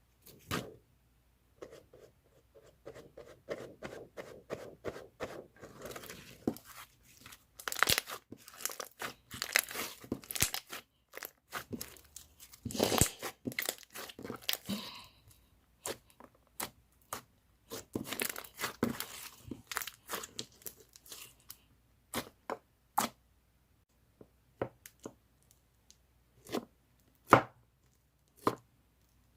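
Slime being squished and pressed by hand, making dense runs of crackling and popping, then a few separate sharp pops near the end.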